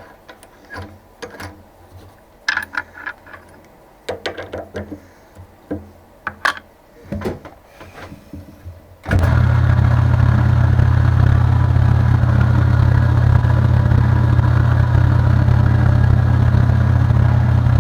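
Tool-handling clicks and knocks, then about halfway through a benchtop drilling machine's motor switches on abruptly and runs steadily with a strong low hum, for center drilling a 4140 steel block.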